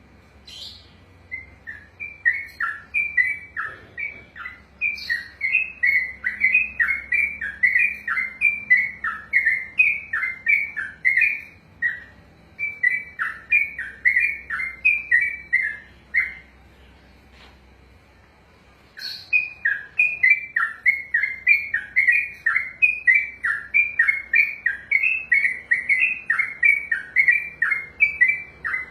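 Trucukan (yellow-vented bulbul) singing a long rolling run of quick, bubbly notes, loud and repeated a couple of times a second. It breaks off for a couple of seconds midway, then picks up again.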